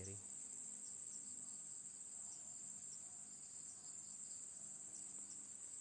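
Steady, high-pitched chorus of crickets chirring without a break.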